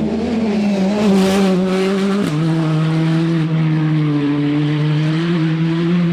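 Rally car engine running hard at high revs, changing up a gear about two seconds in with a sudden drop in pitch, then pulling steadily with the note creeping up.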